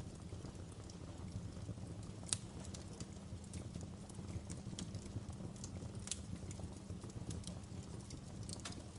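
Wood fire burning in a fireplace, crackling with irregular sharp pops, the loudest about two seconds in, over a steady low rumble of the flames.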